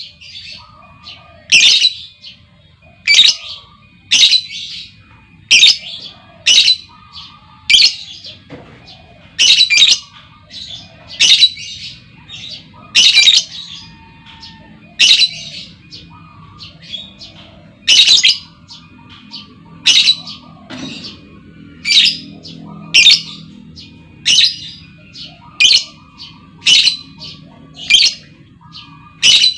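Female lovebird calling: short, shrill, loud chirps repeated about once a second, used as a lure sound to set other lovebirds calling.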